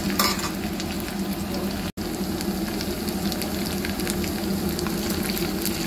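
Sliced onion, green chillies, coriander and mint sizzling in hot oil in a small pan, with scattered fine crackles: the baghaar (tempering) for maash dal frying. The sound cuts out for an instant about two seconds in.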